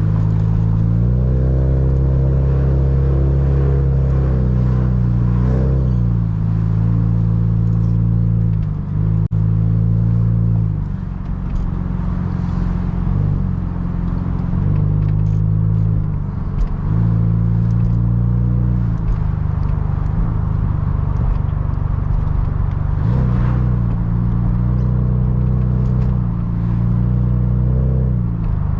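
Car engine running and road noise heard from inside the cabin while driving. The engine drone shifts and steps in pitch several times as the speed changes.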